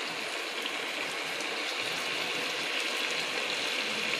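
Chicken pieces sizzling steadily in hot oil and soy sauce in a pot.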